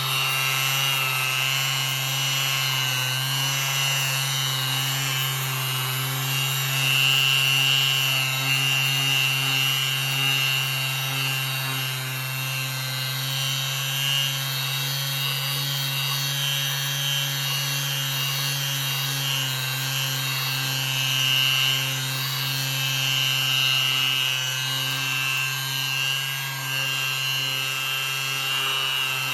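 Bosch GSS 23 AE orbital finishing sander running steadily with its pad sanding a surface, a steady motor hum under a higher rubbing sound that swells and eases as the sander is moved.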